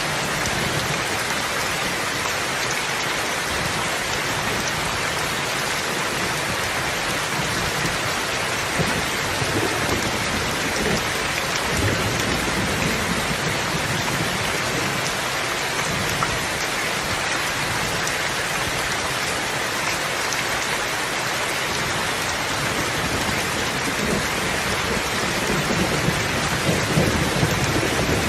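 Steady heavy rain: an even hiss of rain falling on surfaces, with low rolls of distant thunder. A rumble of thunder builds near the end.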